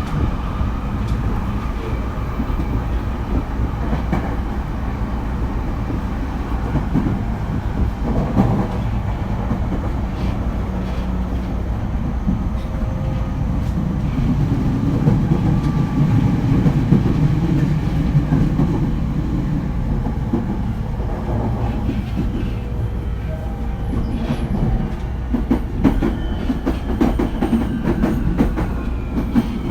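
Running sound heard from inside a JR East E231 series commuter train: a steady rumble of wheels on rail with rail-joint clicks. Near the end a whine starts to fall in pitch as the train slows for the station.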